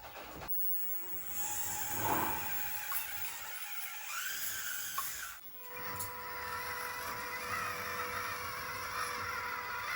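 Small electric motor and gearbox of a remote-control car running, a grinding whir that turns into a steady whine about halfway through.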